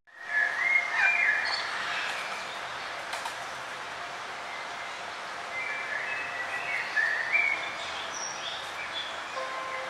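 Forest songbirds chirping in short phrases over a steady background hiss. The sound drops out for a moment at the very start and fades back in.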